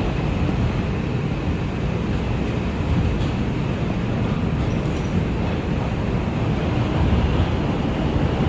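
An R142 subway train running at speed between stations, heard from inside the car: a steady, loud rumble of wheels on rail, with a faint high whine.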